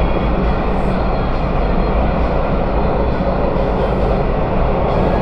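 An MTR South Island Line S-train, an electric metro train, running at speed through a tunnel, heard from inside the car. There is a steady rumble of wheels on rail and traction motor noise.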